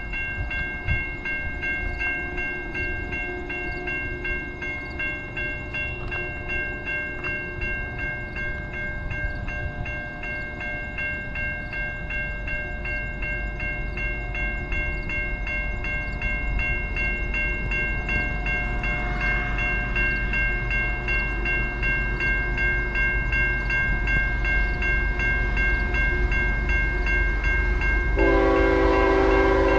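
A level-crossing bell rings on and on while the rumble of an approaching train grows. Near the end a locomotive horn starts to sound, a loud chord of several notes.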